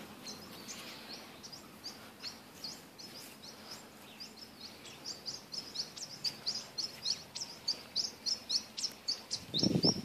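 Small birds chirping: many short, high chirps that come faster from about four seconds in, to several a second. A short burst of noise comes near the end.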